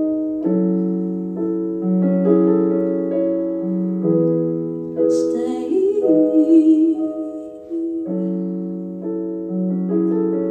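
Slow piano chords held and changed every second or two, with a woman singing one wavering held note about halfway through.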